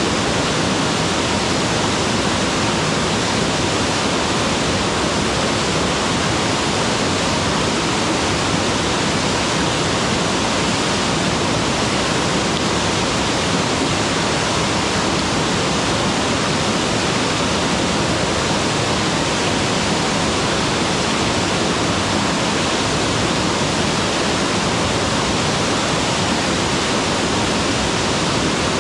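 Mountain waterfall pouring steadily: a loud, even rush of falling water with no change.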